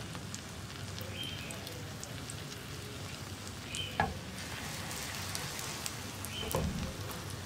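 Egg, vegetable and bread omelette frying in oil in a non-stick pan on low heat: a steady, soft sizzle. A light knock about four seconds in and another near the end.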